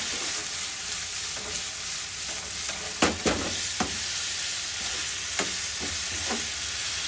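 Meatballs sizzling in hot oil in a frying pan while a spoon stirs them, with a few light knocks of the spoon against the pan a little after halfway.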